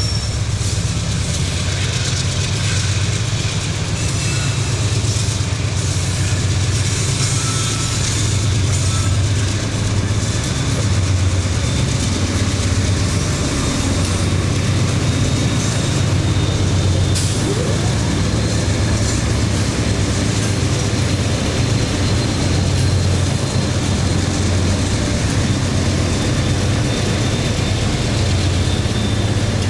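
Train going by with a steady, loud low rumble and rolling noise.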